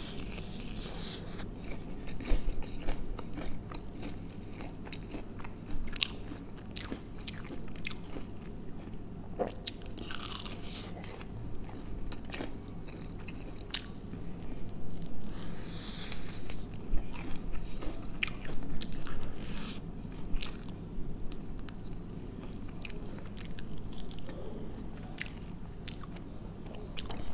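A man chewing crispy breaded fried chicken close to the microphone: irregular crunches and short sharp clicks of biting, over a steady low hum.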